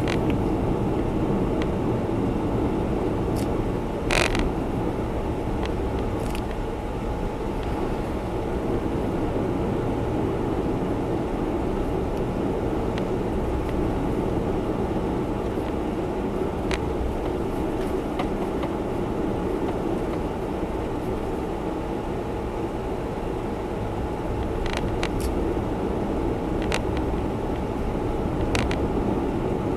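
Steady road and engine noise inside the cabin of a Honda Zest Spark kei car on the move, with a few faint clicks over it.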